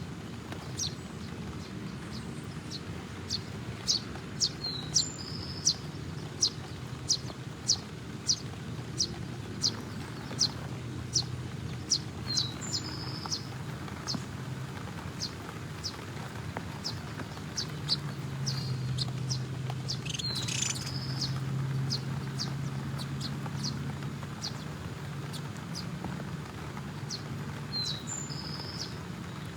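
Small birds chirping: a steady series of short, high chirps at about two a second, with a few downslurred calls mixed in. A steady low background rumble runs beneath, swelling somewhat about two-thirds of the way through.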